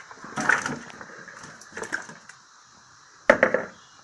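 Peeled yam chunks dropped into a cooking pot, knocking and clattering in three bursts, the loudest near the end.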